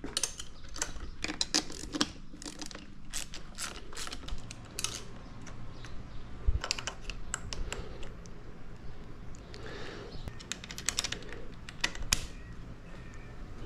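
Irregular clicking and clinking of hand tools on metal while the handlebar clamp bolts of a pit bike are tightened.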